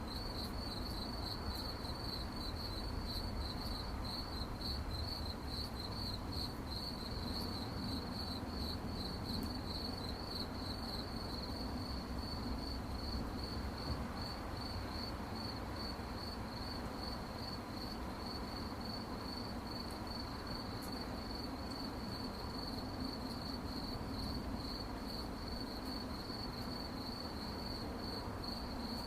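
Crickets chirping in a continuous, rapidly pulsing high trill, over a low background hiss.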